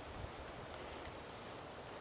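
A hiker's soft footsteps on a trail, a few dull footfalls over a steady outdoor hiss.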